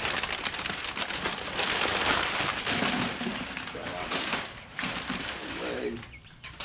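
Packing material rustling and crinkling as a parcel is unpacked, dense and crackly for the first four seconds or so, then dying down.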